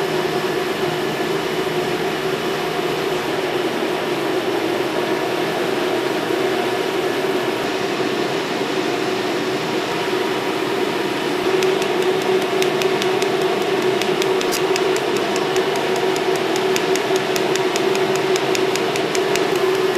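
Pulsed Nd:YAG laser welding machine: a steady hum from its power and cooling unit, and from about halfway a rapid, evenly spaced ticking as the laser fires pulse after pulse.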